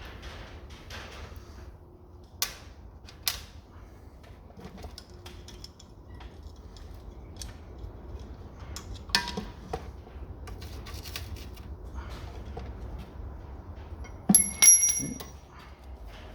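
Metal clicks and clinks from taking exhaust valves out of a Ford OHC Pinto cylinder head: a few sharp clicks spread through, and near the end two loud clinks of metal that ring briefly.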